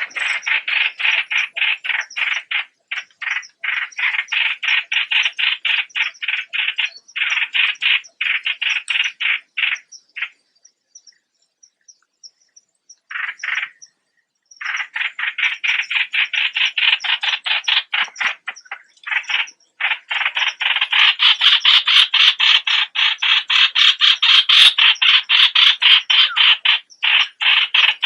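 Streak-eared bulbul calling in long runs of rapid short notes, about five a second, with a pause of a few seconds near the middle and a louder, denser run in the last third.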